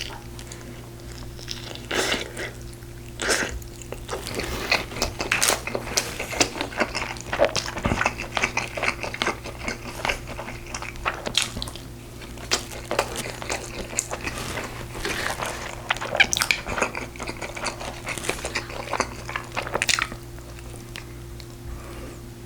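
A person eating close to the microphone: irregular chewing and biting with wet mouth smacks and clicks.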